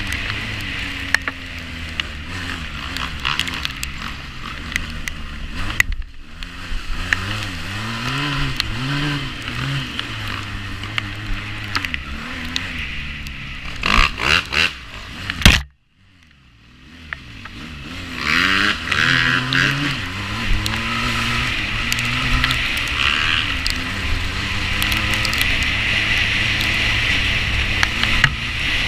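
A 350cc quad bike engine revving up and down as it is ridden off-road, with knocks, rattles and scraping from the bike over rough ground. About halfway through there is a loud clatter, then the sound drops out briefly and builds back up.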